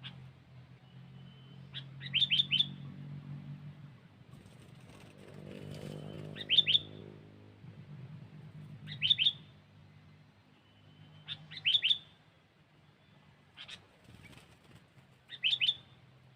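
Sooty-headed bulbul (kutilang) calling: short phrases of three or four quick rising notes, repeated every two to three seconds. A low steady hum runs underneath.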